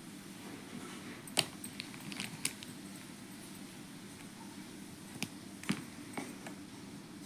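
A scattered series of light clicks and taps, one cluster in the first half and another near the end, from drawing pens or markers being picked up and set down, over a steady low hum.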